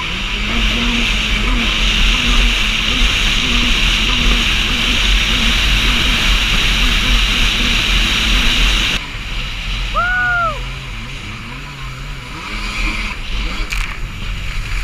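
Stand-up jet ski engine running hard with a rush of water and wind. About nine seconds in, the rush drops and the engine settles lower as the throttle eases off.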